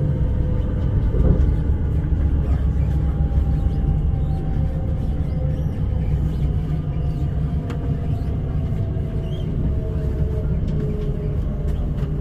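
Inside a Class 345 electric train running at speed: a steady low rumble of wheels on the track, with a faint motor whine that slowly falls in pitch.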